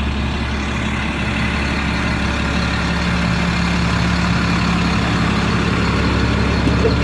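Caterpillar C7 inline-six diesel engine of a Ford F650 medium-duty truck idling steadily.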